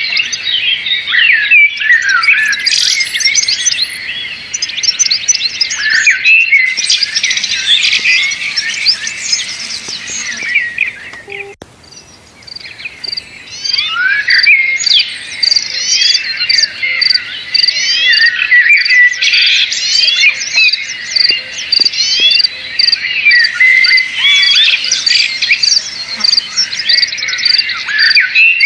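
Many birds chirping and calling at once in a dense, overlapping chatter of short high notes, which thins out briefly about twelve seconds in and then resumes. Through the second half a high note repeats at an even pace, about twice a second.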